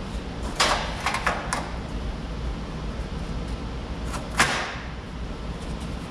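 Knocks and clanks of metal parts being fitted into the bus floor: four quick knocks near the start and one louder, briefly ringing knock about four seconds in, over a steady low hum.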